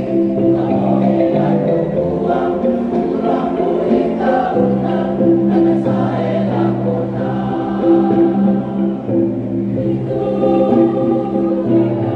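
Mixed choir singing a song in sustained multi-part harmony, with held bass notes changing every second or two, accompanied by a kolintang ensemble.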